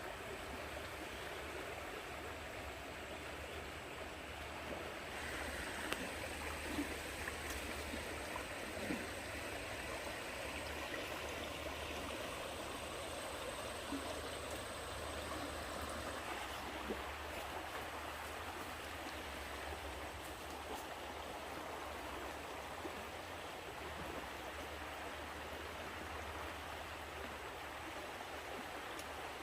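Stream running steadily, with a few faint light knocks between about six and seventeen seconds in.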